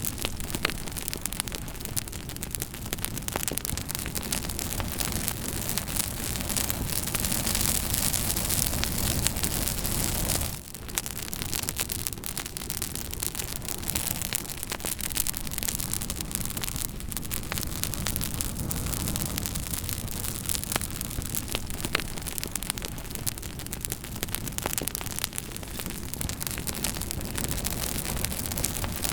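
Campfire burning with frequent sharp crackles and pops over a steady rushing noise, with a brief dip in level about ten seconds in.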